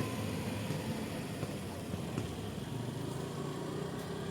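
Steady traffic noise with a motor vehicle engine running.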